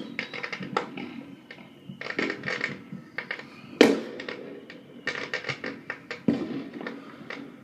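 Fireworks going off: several sharp bangs, the loudest about four seconds in, with bursts of rapid crackling between them.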